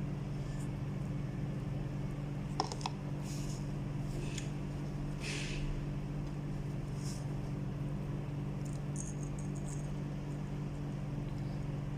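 Steady low electrical hum, like a fan or appliance, with a few short soft hissing sounds spread through it and a single sharp click about two and a half seconds in.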